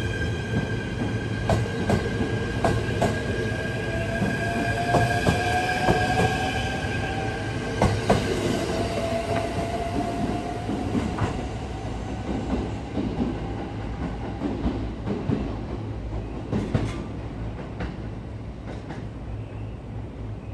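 Electric train pulling away, with a high steady whine at first, then a motor whine rising in pitch as it gathers speed. Wheels click over the rail joints, and the sound fades as the train leaves.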